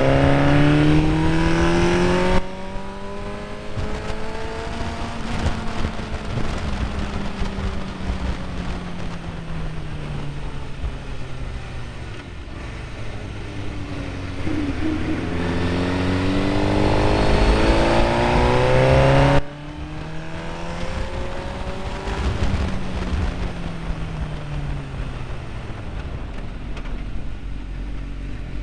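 Motorcycle engine accelerating hard on a race circuit. Its pitch climbs and cuts off abruptly twice, near the start and about two-thirds of the way through, with lower, gliding engine notes over steady noise in between.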